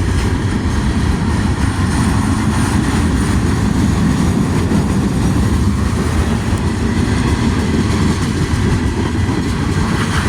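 Norfolk Southern freight train rolling slowly past, a steady rumble of wheels on the rails.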